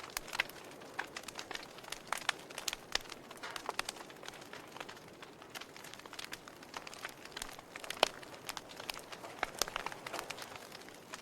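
Wood fire crackling: irregular sharp pops and snaps over a soft steady hiss, with one louder pop about eight seconds in.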